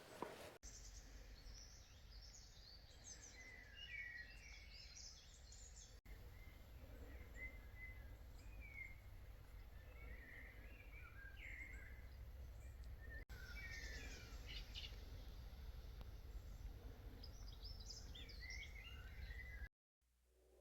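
Faint outdoor birdsong: several small birds chirping and trilling over a low steady rumble, broken by a few abrupt cuts.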